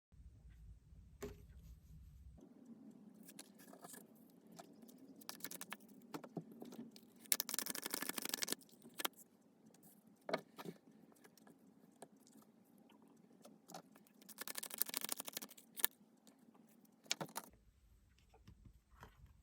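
Tarot cards being shuffled and handled, with scattered clicks and scrapes and two longer rustling shuffles, one about seven seconds in and one about fourteen seconds in.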